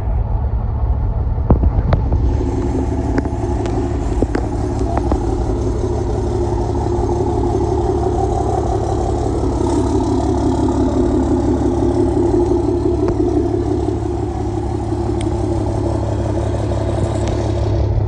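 Truck engines running, a steady low rumble with a few short clicks scattered through it.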